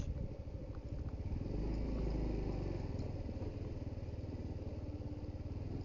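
Suzuki GD110HU motorcycle's single-cylinder four-stroke engine running with a steady, rapid firing pulse, getting a little louder about a second and a half in.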